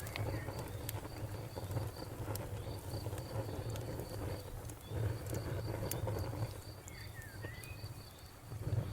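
Wood fire burning, with a low steady rumble and scattered sharp crackles and pops from the wood. Behind it a cricket chirps steadily at a high pitch, and a bird gives a short call about seven seconds in.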